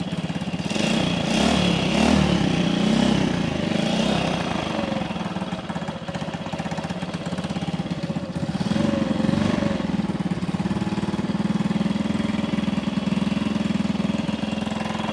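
Vintage small single-cylinder motorcycle engine running after a spark-plug swap, its first steady run. It is blipped up twice, a few seconds in and again past the middle, and falls back to a fast idle between.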